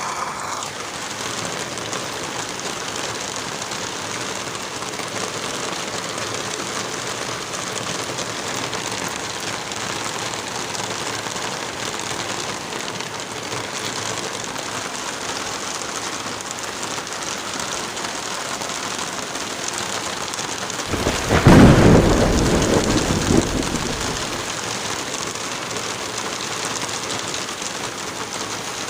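Steady light rain with wind blowing through forest trees. About 21 seconds in, a loud, deep rumble swells and dies away over some three seconds.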